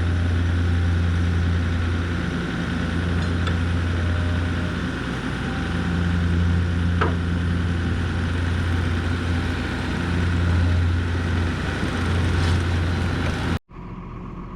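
Gehl RT65 compact track loader's diesel engine running steadily with a low hum that swells and eases a little. The sound cuts off abruptly near the end.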